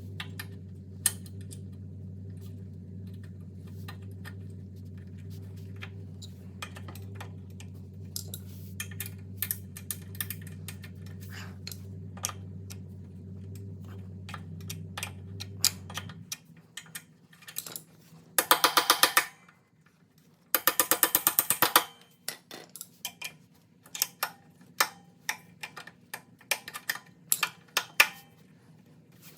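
A ratchet wrench clicking in two quick runs while tightening the bolts of a mini bike's new foot pegs, with scattered clinks of tools and metal parts. A steady low hum under the first half cuts off suddenly about halfway through.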